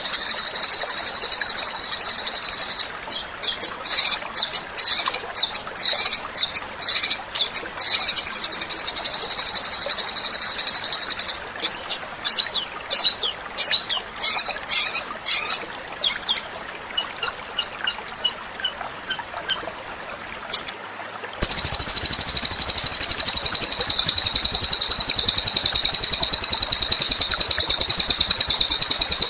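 Recorded songbird song: very fast, high trills, at first continuous, then broken into short trilled phrases with pauses. About 21 s in it cuts abruptly to a louder, unbroken rapid trill from a different recording.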